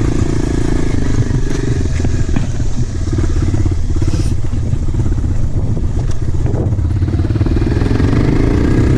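Dirt bike engine running under the rider at low, uneven speed, with a few sharp clicks; near the end the engine note rises as it revs up.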